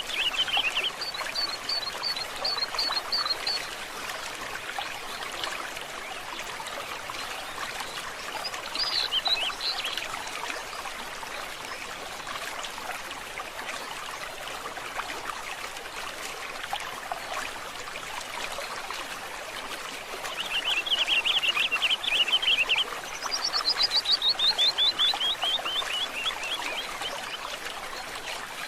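Stream water trickling steadily, with several songbird calls over it: a rapid trill and a short series of high notes at the start, a brief call about nine seconds in, another trill a little past twenty seconds, then a quick run of notes falling in pitch.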